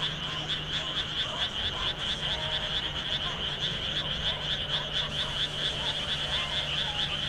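Chorus of frogs calling from flooded rice paddies: many overlapping rapid, pulsing croaks blending into a dense chorus. A steady low hum runs underneath.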